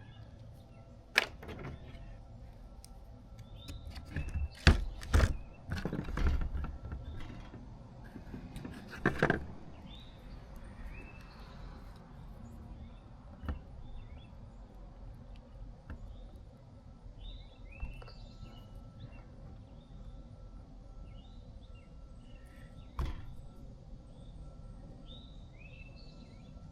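Scattered knocks and clatters from handling work, the loudest a cluster about five seconds in, with small birds chirping repeatedly in the background.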